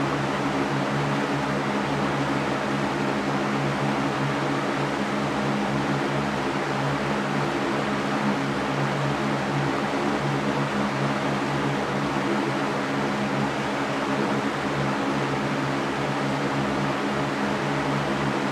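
Electric fan running steadily: an even whooshing rush of air over a low motor hum.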